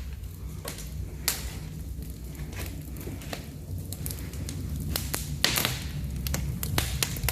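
Wood fire crackling in an open brick fireplace: irregular sharp pops and snaps over a steady low rumble.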